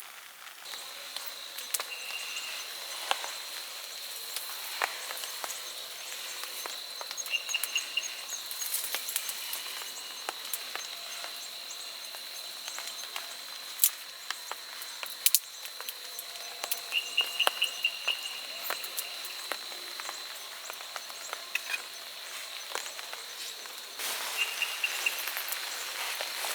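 Rainy forest ambience: light rain hiss with scattered sharp ticks of drops, and a steady high-pitched insect drone that stops near the end. Short pulsed chirps come every few seconds.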